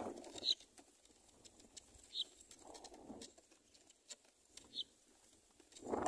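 A small songbird chirping: three short, high chirps spaced a second or two apart, against a faint background.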